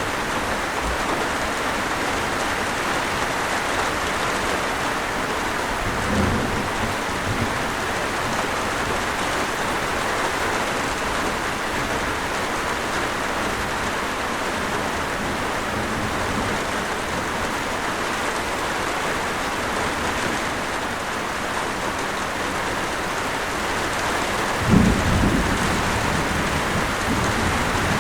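Steady rain, with a low rumble of thunder about six seconds in and a louder rumble of thunder near the end.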